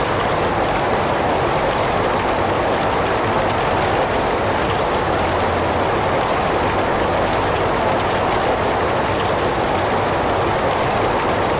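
Heavy rain falling steadily, an even, unbroken hiss with no thunder or separate drops standing out.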